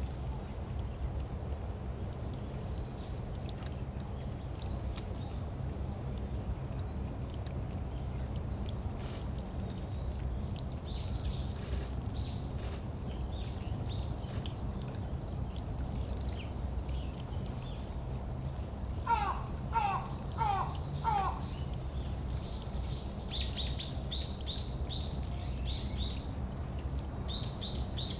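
Wild birds calling over a steady, high insect drone. Partway through, a bird gives four quick falling whistled notes; later come short high chirps, twice in clusters, all over a low steady background rumble.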